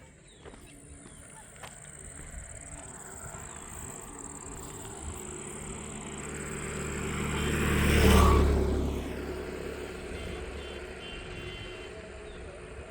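A motor vehicle approaching and passing close by. Its engine and tyre noise swell over several seconds to a peak about eight seconds in, then fade away.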